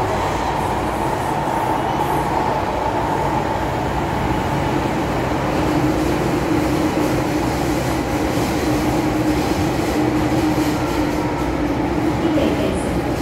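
MTR M-Train metro train running through a tunnel, heard from the cab: a steady rumble of wheels and running gear, with a steady low tone that sets in about five seconds in and holds.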